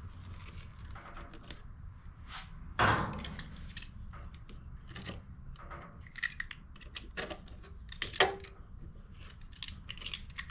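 Tangled string and tarp scraps being cut and pulled away from under a push mower's deck: irregular snips, rips and scrapes, with a louder rip about three seconds in and a sharp knock near eight seconds.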